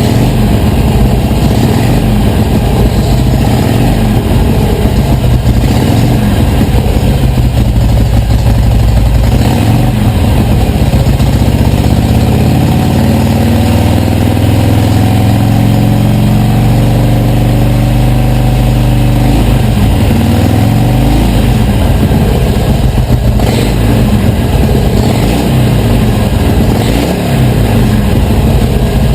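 Harley-Davidson Iron 883's air-cooled V-twin running loud through its stock mufflers opened up by removing the internal plugs, idling, with the revs rising and falling around the middle.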